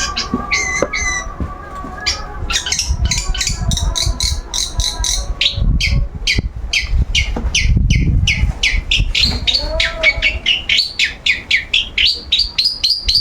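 Long-tailed shrike (cendet) singing in a rapid run of short, sharp notes that come faster toward the end. A low rumble sounds underneath around the middle.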